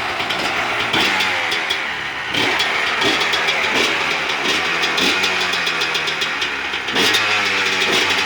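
Two-stroke 250 cc motocross bike engine idling, with repeated short throttle blips that rev it up and let it fall back.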